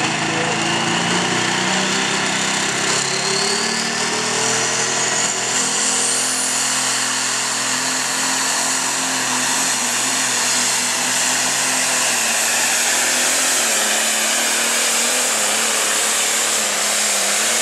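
Light pro stock pulling tractor's turbocharged diesel engine at full throttle during a pull, its turbo whistle climbing steeply in pitch over the first six seconds, then holding high and steady with the engine running flat out.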